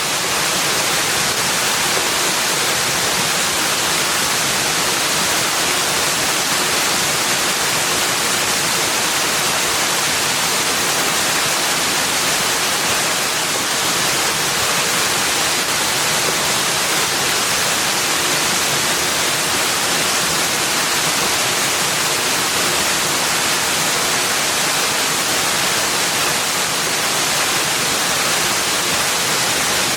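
Steady rushing water, an even hiss that never changes in level, with no birds or other distinct sounds standing out.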